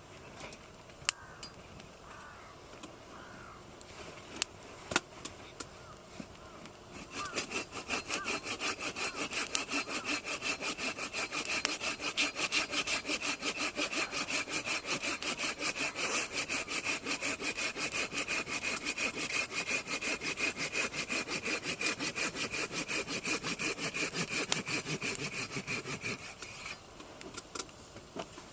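Hand saw cutting through firewood in rapid, even back-and-forth strokes that start about seven seconds in and stop near the end, after a few light knocks of wood being handled.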